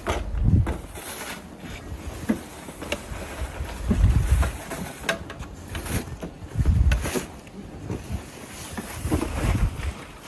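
Wind gusting against the microphone: low rumbling blasts every two to three seconds over a steady outdoor hiss.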